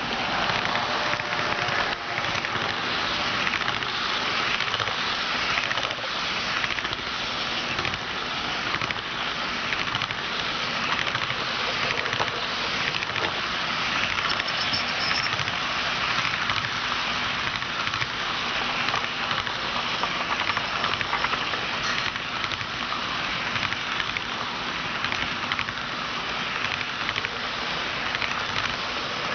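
HO scale model train running on its track: a steady, dense rattle and clicking of small wheels over the rails, with a faint steady hum underneath.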